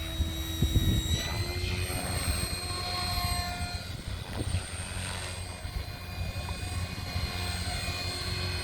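Hirobo Lepton EX radio-controlled model helicopter running, a steady whine of several tones over a low rotor thrum; the whine rises slightly about a second in, then holds.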